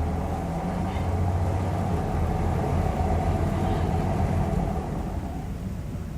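Hyundai Aerocity 540 bus engine running under way, a steady low rumble that eases off about five seconds in.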